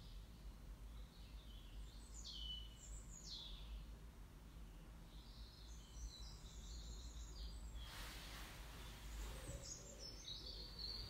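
Faint bird song: a few short, high chirping phrases with quick sweeping notes, over a low steady hum. A soft hiss of noise comes in about eight seconds in.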